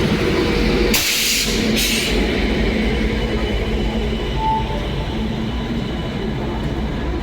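Express train hauled by a WAP-7 electric locomotive pulling out of a station, giving a steady rolling rumble on the rails. Two short bursts of hiss come about one and two seconds in.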